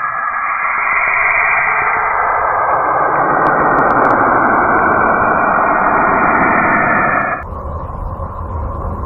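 A planet 'sound' recording of the kind made by turning spacecraft radio data into audio: a steady rushing, radio-static-like noise that cuts abruptly, about seven seconds in, to a quieter, lower rumble with a few faint clicks.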